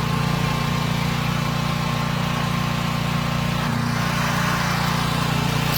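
Pressure washer machine running steadily with a constant hum while it builds water pressure before the jet spray comes through; a faint hiss comes in over the second half.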